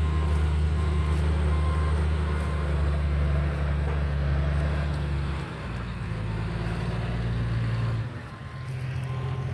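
Engine of heavy logging equipment running steadily, its pitch dropping about halfway through and shifting again near the end as the engine speed changes.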